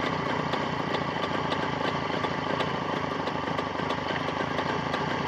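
Jawa 634's 350 cc two-stroke twin engine idling steadily.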